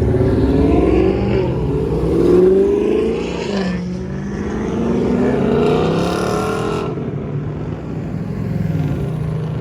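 Several cars' engines accelerating as they drive past one after another, their pitch rising and falling, loudest about two and a half seconds in.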